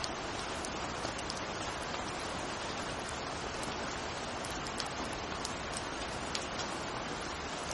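Steady rain falling: an even hiss sprinkled with quick, sharp ticks of single drops striking a surface.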